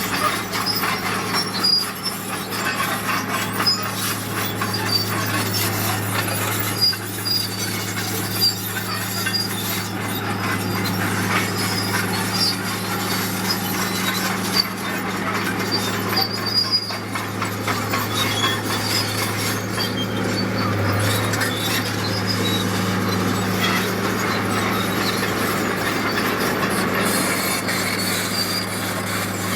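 Crawler bulldozer working: its diesel engine runs with a steady drone, while the tracks give scattered high metallic squeals and clanks.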